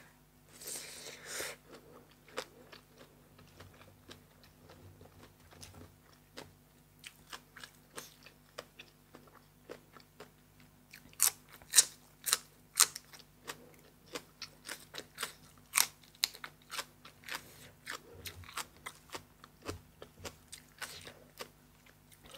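A person chewing and crunching crisp raw food close to the microphone: mouthfuls of green papaya salad and raw vegetables. The chewing is faint at first and grows into loud, rapid crunches about halfway through.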